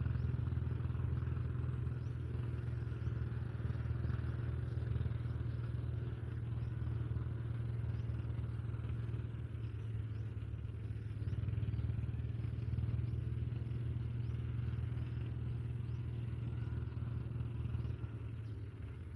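A steady low motor rumble, like a distant engine, running throughout. Faint short high chirps sit above it.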